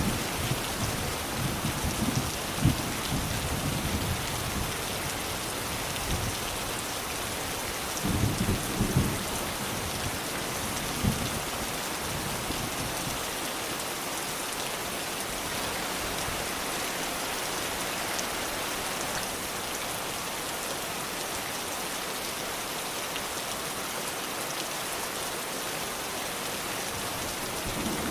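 Steady rain hissing, with low rumbles of thunder through the first few seconds and again about eight seconds in.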